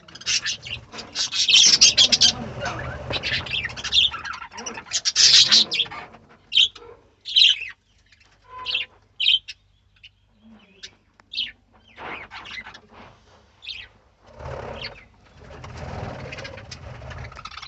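A colony of budgerigars chattering and chirping: a dense run of overlapping high chirps for the first six seconds or so, then single calls spaced apart, and a busier stretch again near the end.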